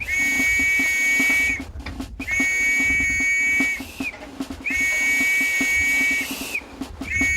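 Tugboat whistle sounding four long, steady blasts of about a second and a half each, the last starting near the end, over a low rhythmic chugging.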